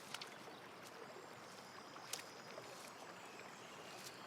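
Faint outdoor ambience: a soft, steady hiss like distant trickling water, with three quiet clicks: one just after the start, one about two seconds in and one near the end.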